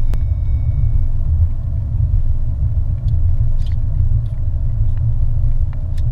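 Steady, loud low rumble of a car, picked up by a dash cam inside the cabin, with a few faint clicks.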